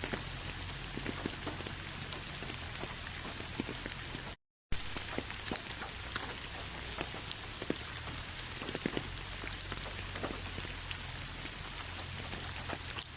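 Steady rain falling, with many separate drop hits heard as sharp ticks over an even hiss. The sound cuts out completely for a split second about four and a half seconds in, then resumes.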